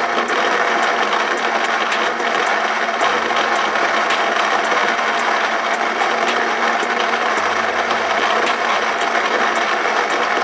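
Electric coffee grinder running, a loud steady whir with scattered clicks as it grinds beans.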